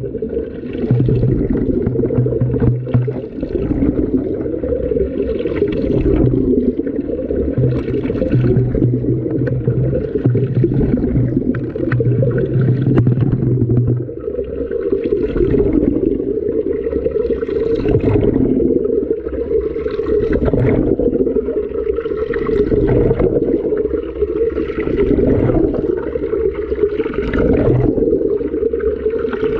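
Water sloshing and splashing inside a running washing machine drum, heard from inside the drum through a GoPro's waterproof case. Swells of splashing come about every two seconds as the drum turns, over a steady low hum that stops about halfway through.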